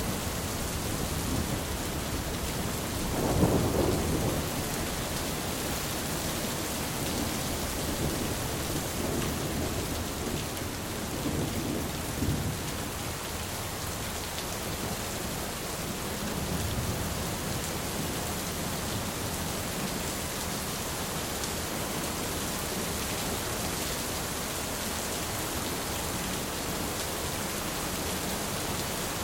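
Steady heavy rain hissing on surfaces, with rolls of thunder rumbling low: the strongest a few seconds in, fainter ones around the middle.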